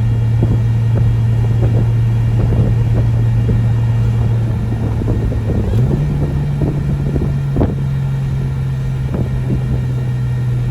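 Turbocharged RB25NEO straight-six engine running at steady revs, its pitch stepping up abruptly about halfway through and then holding, with small clicks here and there.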